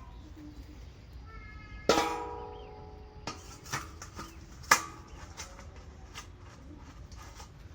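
Thin metal bowls being handled and knocked: one sharp clang about two seconds in rings on with several pitches and fades over about a second, followed by a few lighter clinks and a sharper knock.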